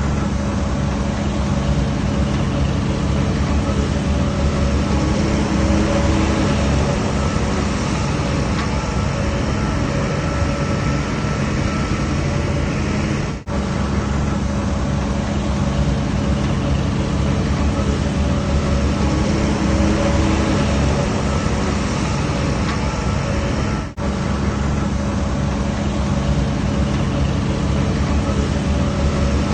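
DH17C3 Pro bulldozer's diesel engine running steadily at a constant pitch, cutting out for an instant twice, about 13 and 24 seconds in.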